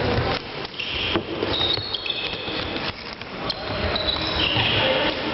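Floorball game play in a sports hall: sharp clicks of sticks striking the plastic ball and sneakers squeaking on the court floor, several short high squeaks about one, two and four and a half seconds in.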